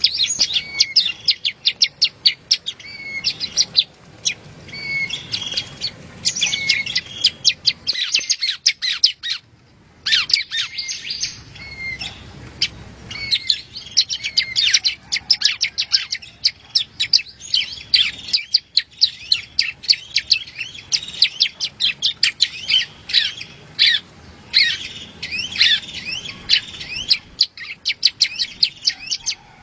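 Yellow-bellied prinia (prenjak rowo) singing: a fast, dense run of sharp high chirps and trills, broken by short pauses about nine and eighteen seconds in.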